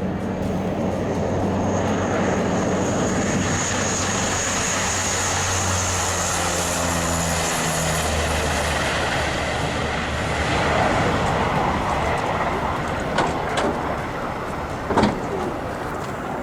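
Aircraft engines running over a steady rushing noise, with a low drone that drops in pitch about eight seconds in. A few sharp knocks come near the end.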